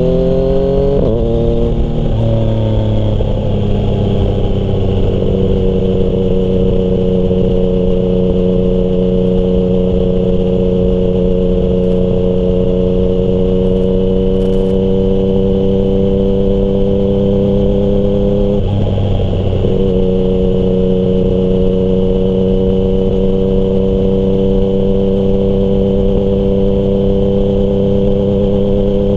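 Yamaha MT-09's three-cylinder engine through a Termignoni exhaust, revving up and shifting up twice in quick succession, then running at steady cruising revs with one more gear change about two-thirds of the way through.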